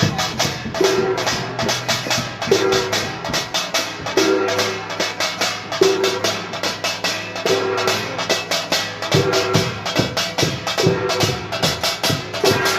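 Korean pungmul percussion ensemble playing fast and loud: dense rapid strokes of gongs and drums, with a ringing note that recurs about every second and a half.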